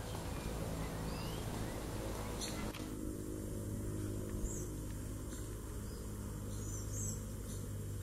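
Several short, high bird chirps over a steady low hum, with a small cluster of chirps near the end.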